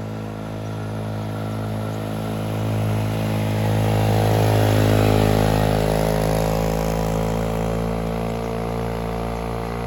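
Motorbike engine labouring steadily as it climbs a steep mountain road. It grows louder to a peak about halfway through, then eases off.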